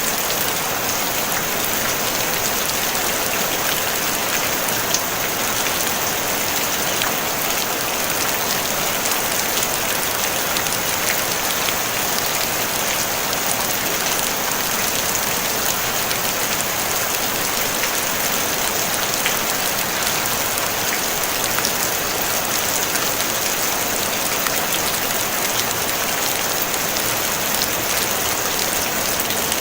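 Steady rain falling on a tin roof: a dense, even hiss of many small drop impacts, with no thunder.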